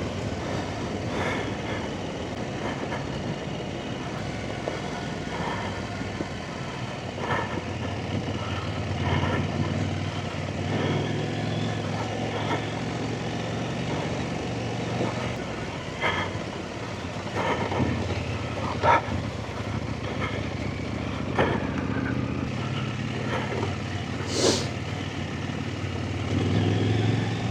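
Big adventure motorcycle's engine running on a trail ride, its pitch rising and falling in steps, with scattered knocks and clatters throughout and a short hiss about 24 seconds in.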